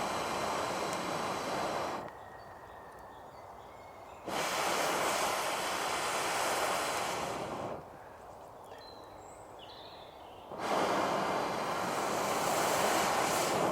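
Three long, steady breaths blown through a homemade alder blow tube onto the fire's embers to revive it, each lasting about three seconds with a pause between.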